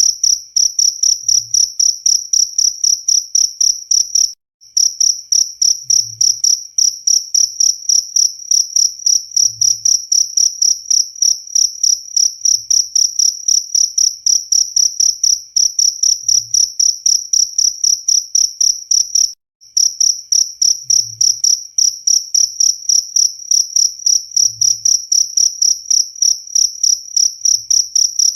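Cricket chirping: a loud, high-pitched, steady train of chirps at about four a second. It cuts out briefly twice.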